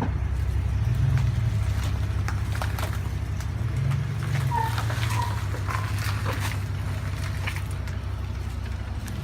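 Truck engine running low and steady under load as it tows a car on a rope, swelling twice. Scattered clicks and a few short squeaks sound over it.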